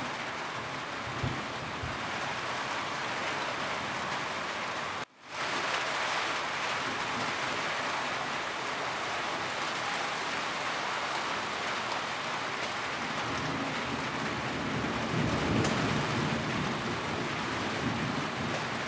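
Steady rain falling on a roof, an even hiss of drops. The sound drops out for a split second about five seconds in, and a low rumble swells up around fifteen seconds in.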